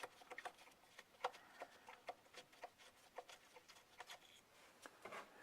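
Near silence with faint, irregular light clicks and taps, like small parts and tools being handled in an engine bay.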